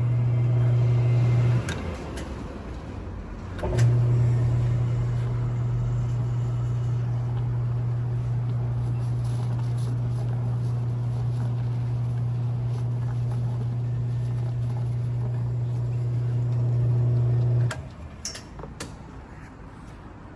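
BANZAI OC-70 100V electric oil changer pump running with a steady hum. It cuts off after about a second and a half, starts again with a click about two seconds later, runs steadily, and stops a few seconds before the end, followed by a couple of clicks.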